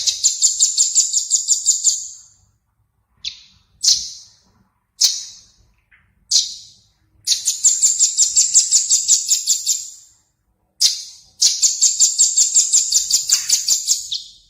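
Recorded small songbird singing: high trilled phrases of rapid repeated notes, about six a second, broken by a few short single calls, then two longer trills.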